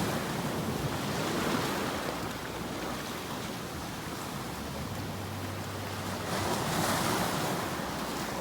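Ocean waves washing ashore: a steady rush of surf that ebbs and swells again near the end.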